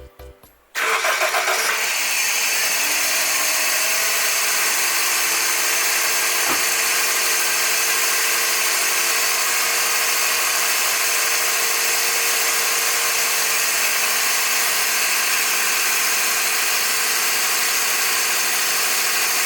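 Turbocharged Toyota Vitz engine cold-starting about a second in, then settling into a steady fast idle. A strong hiss of air rushing through the throttle body and intake manifold runs over the idle.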